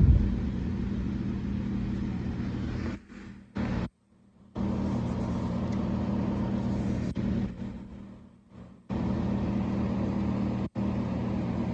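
Window air conditioner running: a steady electrical and mechanical hum with the compressor and fan going. The sound cuts out to silence briefly a few times, about three, eight and eleven seconds in.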